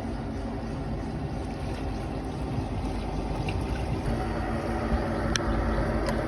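Small round leisure boat running on a lake: a steady motor hum and rumble with water noise, growing slightly louder, and a couple of sharp clicks near the end.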